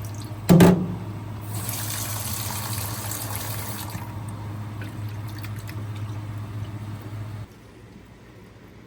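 Water running and pouring in a kitchen, with a sharp metallic knock about half a second in. The running water and its steady hum stop suddenly about seven and a half seconds in.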